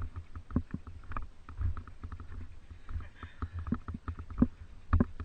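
Irregular clicks and knocks over a low, uneven rumble, typical of a mountain bike rattling over rough ground.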